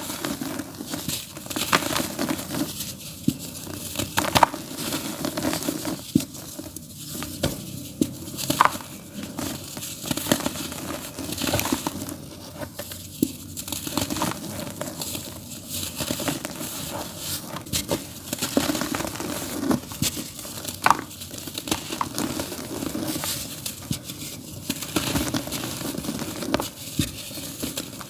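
Dry, earthy dirt being crumbled in a tub: a continuous, irregular crunching and crackling of breaking lumps, with frequent sharp crisp snaps.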